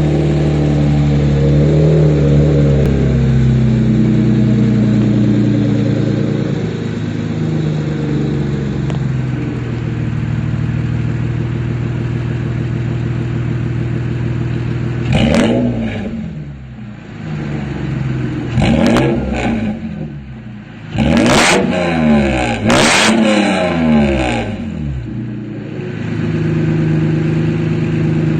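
Toyota Tacoma V6 running through URD headers, a Y-pipe and an aFe cat-back exhaust, idling steadily. About halfway through come four quick free revs, each rising sharply and falling back, before it settles to idle again.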